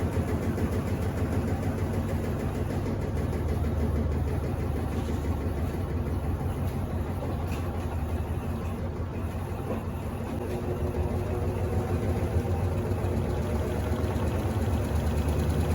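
Electrolux Turbo Economia 15 kg top-loading washing machine running: a steady low motor hum with a fast pulsing texture that dips slightly in the middle and swells again toward the end.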